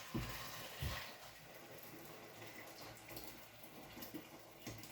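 A pot of hot water on the stove, with two soft knocks in the first second and then a faint, steady water hiss.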